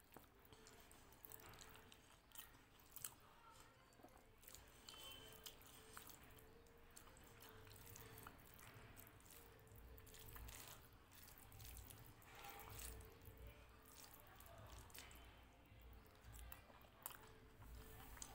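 Faint, close-miked chewing and mouth sounds of someone eating rice and dal by hand, with soft squishes of fingers mixing the food on the plate and many small scattered clicks. A faint steady hum runs underneath.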